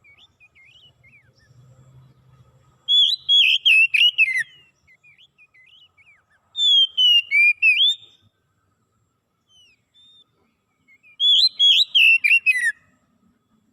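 A songbird singing: three loud bursts of quick, sliding whistled notes a few seconds apart, with soft scattered chirps between them.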